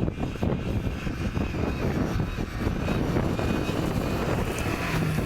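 A 4x4 off-road vehicle's engine running hard, with a steady low rumble.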